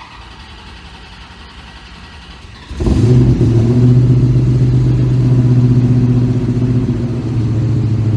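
383 small-block Chevy V8 fed by a Holley Terminator X dual-throttle-body fuel injection on a cross-ram intake, started for the first time: a quieter whirring from the key-on cranking for nearly three seconds, then the engine fires about three seconds in and settles into a loud, steady idle. The ignition timing has not yet been checked.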